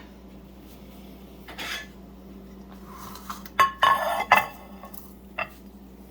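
Dishes and utensils clinking and clattering as a plate is handled, with a quick cluster of clinks about four seconds in.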